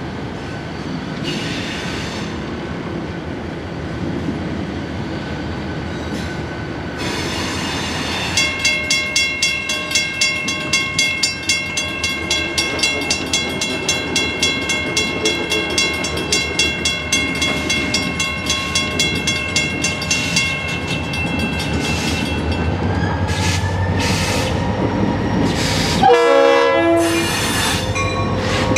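Florida East Coast Railway freight train moving slowly while switching, with a steady low rumble. From about eight seconds in, a ringing signal sounds about twice a second for some thirteen seconds, and short loud bursts come near the end.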